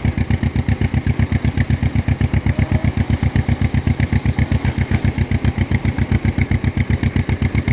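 1953 John Deere 40's two-cylinder engine running with a steady, even pulsing beat of about eight firing pulses a second.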